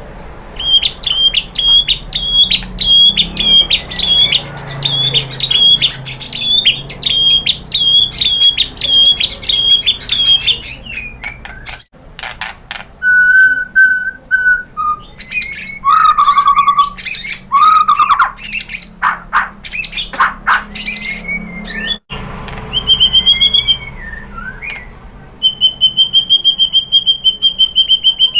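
White-rumped shama (murai batu) singing: a fast run of repeated high chattering notes, then low whistles mixed with sharp clicks, and near the end a long, rapid, even trill.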